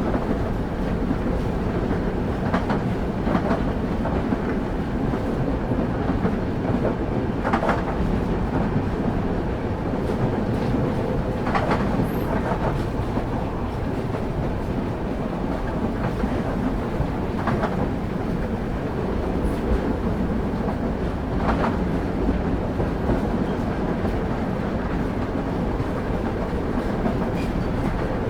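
Railway carriage wheels running on the track of a moving train, heard from on board: a steady low rumble with a sharp clack every few seconds as the wheels cross rail joints.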